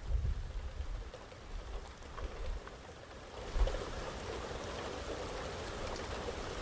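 Steady rain falling, an even hiss, with short low rumbles at the start and again about halfway through.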